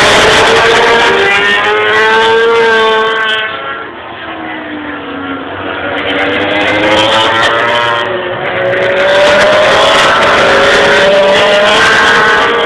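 800cc four-stroke MotoGP racing motorcycles at full throttle, engine pitch rising as they accelerate through the gears. The sound fades about four seconds in, then builds again as more bikes come through.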